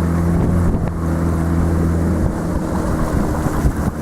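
Motorboat engine running with a steady low hum, which loses its even drone about two seconds in and turns to a rougher rumble as the engine note changes.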